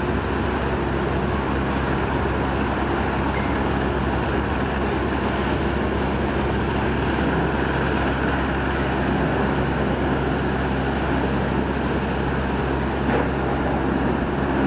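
Helicopter running steadily, a continuous engine and rotor drone with a low hum.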